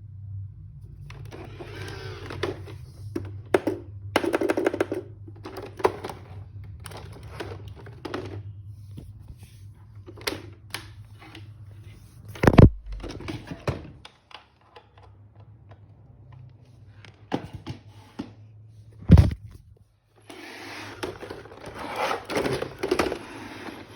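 Roomba 531 robot vacuum running, with a steady low motor hum and recurring bursts of brushing and suction noise. Two loud thunks stand out, about halfway through and again a few seconds later, typical of the robot's bumper knocking into furniture.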